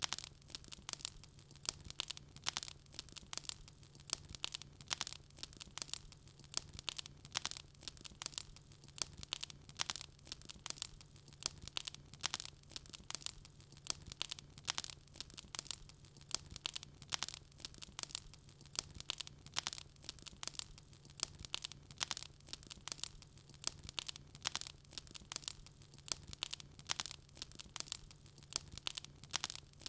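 Wood fire crackling in a fireplace: a dense, irregular run of sharp pops and snaps, several a second, over a faint steady low hum.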